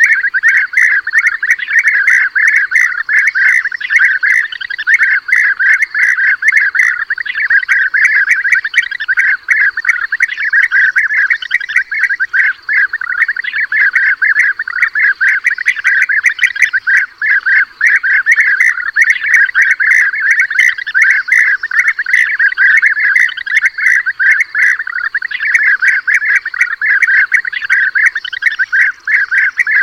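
European bee-eaters calling: a dense, unbroken chorus of rolling, trilled calls from many birds at once, a playback recording of the kind used as a hunting lure.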